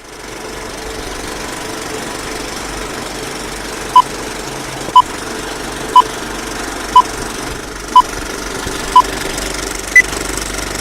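Six short electronic beeps one second apart, then a single higher beep, like a countdown, over a steady mechanical hum.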